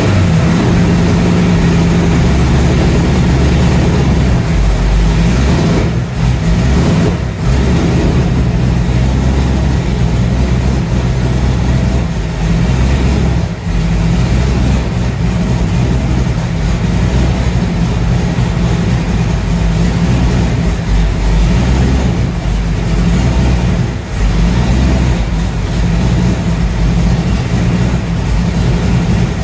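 Car engine running loud and steady under load, with short dips in level around six, seven, thirteen and twenty-four seconds in.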